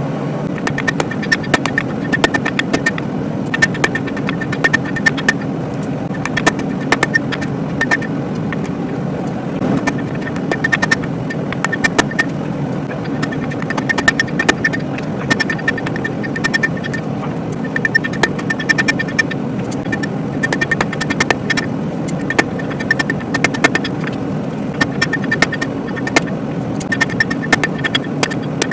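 Hand hammer striking hot steel on an anvil in quick groups of blows, each group ringing with a high metallic tone. Under the blows is the steady roar of the forge.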